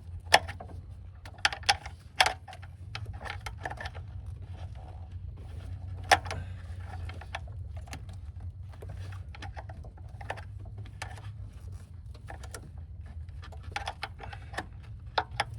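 Scattered sharp clicks and knocks of hands working a fuel line and its fittings into place under the hood, over a steady low hum.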